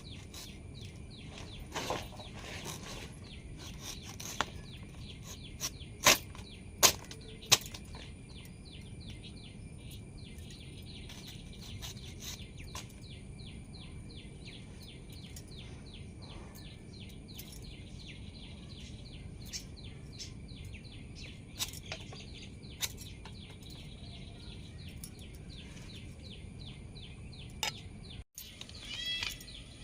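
Outdoor background with birds chirping, including a long, rapid run of high chirps through the middle. A few sharp clicks or taps come in the first few seconds.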